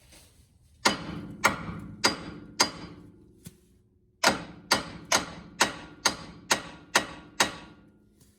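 Hammer blows on the steel lower ball joint and knuckle of a Honda Prelude, struck to pop the tapered ball joint stud loose. Four sharp blows about half a second apart, then after a short pause eight more at the same pace, each ringing briefly.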